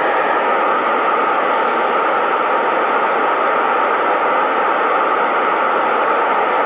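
Metal-casting melting furnace burner running, a loud, constant rushing noise that holds steady throughout.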